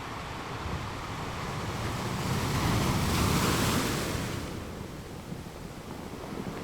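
Ocean waves breaking on rocks: a steady wash of surf swells into one loud crash about two seconds in and falls away again after about four and a half seconds.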